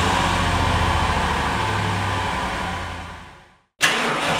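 Car engine idling just after starting, then fading out about three seconds in. A moment later the next car start begins with the starter motor cranking.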